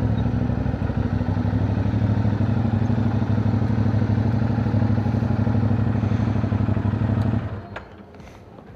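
CFMoto 450NK's parallel-twin engine running steadily, then switched off about seven seconds in, followed by a couple of faint clicks.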